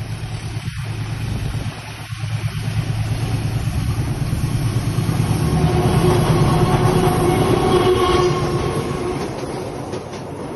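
Train passing over a railway bridge: a continuous rumble that builds to its loudest about six to eight seconds in, with a steady tone sounding over it at the peak, then eases off.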